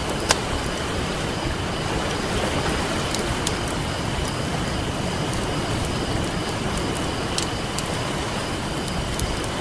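Campfire crackling, with a few sharp pops of burning wood (the loudest just after the start) over a steady rush of ocean surf.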